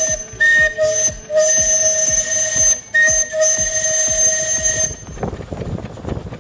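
Steam whistle blown in several blasts, broken by short gaps, over the regular knocking beat of a slow-running old engine. The whistle stops about five seconds in, leaving the engine running.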